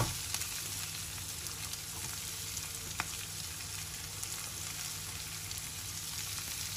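Chopped onions sizzling steadily in hot ghee in a frying pan, with a sharp tap right at the start and a single light click about three seconds in.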